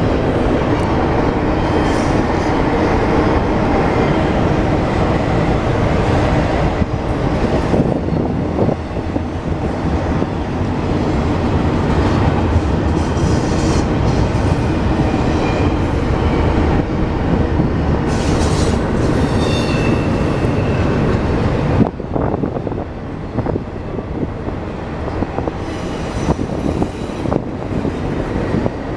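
A train rolling past close by: steady rumble of wheels and cars on the rails, with thin, high wheel squeals now and then. The rumble eases a little in the last third.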